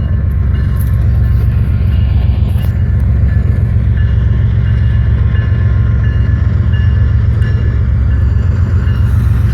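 A long freight train rolling past with a steady, heavy low rumble. Faint short high tones come and go over it.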